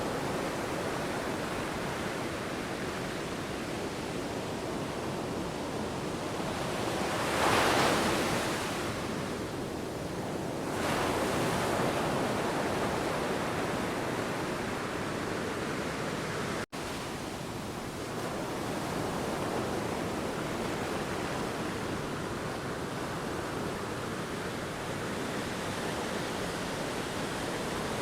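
Ocean waves surging and breaking, a continuous wash of surf with one louder wave crash about seven seconds in and another swell a few seconds later. The sound drops out for an instant about two-thirds of the way through.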